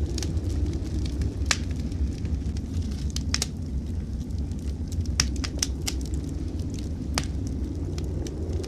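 Wood fire crackling in a fireplace, with several sharp, irregular pops over a steady low rumble.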